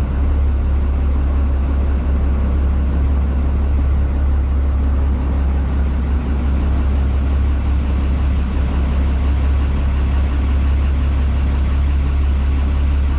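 River boat's engine running steadily, a loud, deep, even drone.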